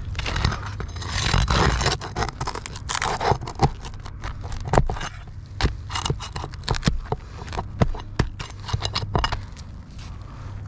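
Low-profile steel flat bar scraping under asphalt shingles, then a quick run of sharp metallic clicks and taps as it pries at the roofing nails.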